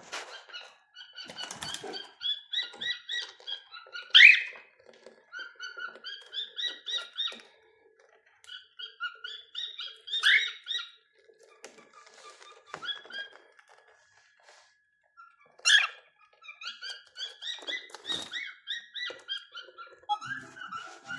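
Cockatiels whistling and chirping in quick strings of short notes, broken by brief pauses, with three loud sharp calls spread through the stretch.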